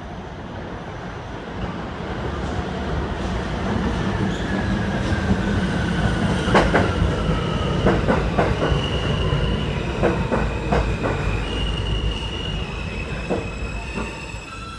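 R160 subway train braking into the station: a falling electric whine as it slows, high wheel squeal, and a run of sharp clacks over the rail joints. The sound grows louder toward the middle, then eases.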